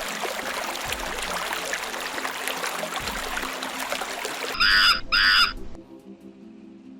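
A steady hiss like running water for about four and a half seconds, then two short, loud animal calls in quick succession, followed by soft sustained music notes.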